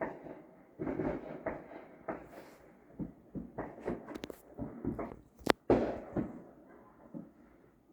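Neighbourhood fireworks and firecrackers going off: an irregular string of pops and bangs, with a few sharper cracks around the middle and the loudest crack about five and a half seconds in.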